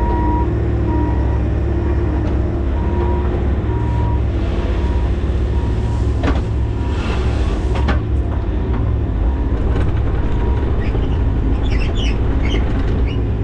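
Skid steer's engine running steadily, with its reverse alarm beeping at a regular pace through the first few seconds. A few sharp metallic knocks come in the middle and near the end.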